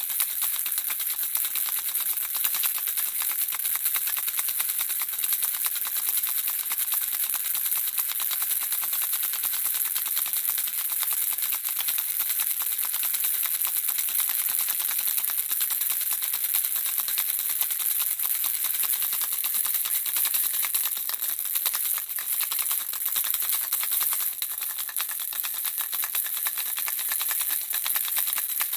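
Baby rattle shaken without pause: a dense, steady, high-pitched rattling of small pieces inside the rattle.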